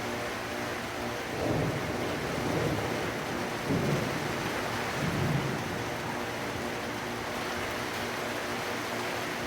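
Steady rain with thunder rumbling low, in several swells about a second to five seconds in, loudest near the middle.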